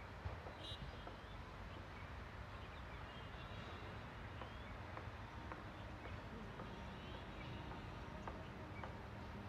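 Distant freight train hauled by a WAG-9 electric locomotive, heard as a faint, steady low rumble, with small birds chirping now and then.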